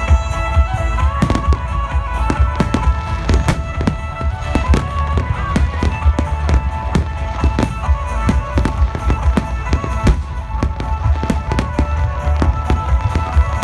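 Fireworks bursting in rapid succession, dozens of sharp bangs over a deep low rumble, with music playing under them.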